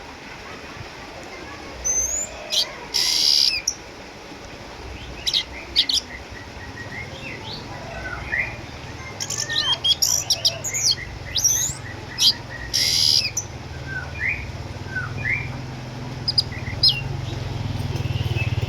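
Orange-headed thrush singing: a varied string of short whistles, chirps and upward-sliding notes, with a couple of harsh, buzzy notes. A low engine rumble builds up in the second half.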